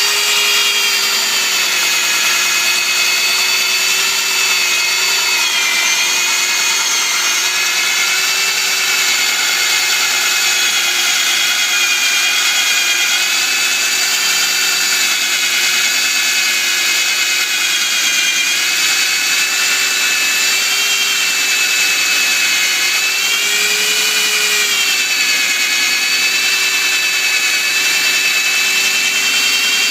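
Electric metal-drilling machine running steadily with a motor whine whose pitch wavers slightly.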